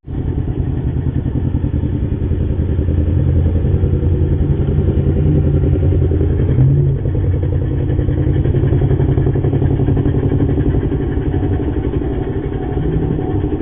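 Motorcycle engine running steadily under way, heard close up, with a slight change in pitch about halfway through.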